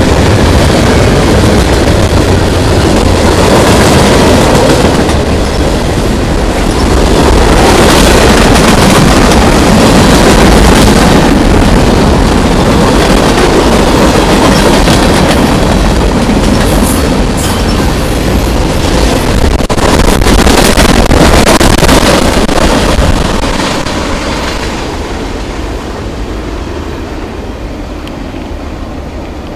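Freight cars of a long freight train rolling past close by, a steady loud rumble and rattle of steel wheels on the rails, which fades off over the last several seconds.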